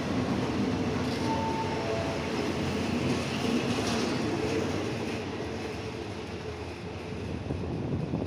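State Railway of Thailand passenger coaches rolling past along the platform as the train pulls out: a steady rumble of wheels on rail that eases off after about five seconds as the last coach goes by.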